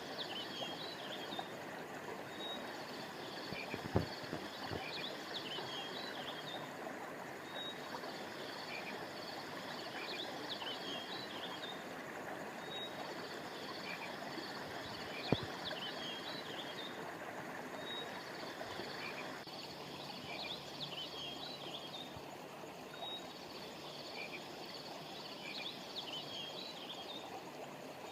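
Steady rushing of river water, with high chirping calls coming in repeated bursts every few seconds. Two sharp clicks stand out, about four and fifteen seconds in.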